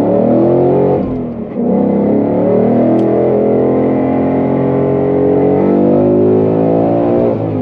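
Ford Mustang GT Performance Pack Level 2's 5.0-litre V8, its active-valve exhaust in Sport Plus mode, accelerating hard, heard from inside the cabin. The revs climb, drop briefly at a manual upshift about a second in, then climb steadily for several seconds before another upshift at the very end.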